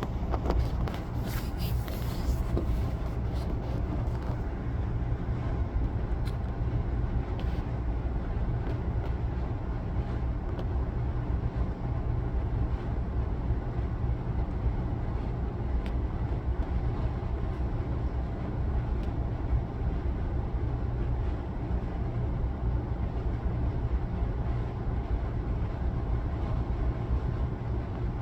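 A steady low mechanical drone with a constant hum, with a few faint clicks in the first two seconds; no bird calls stand out.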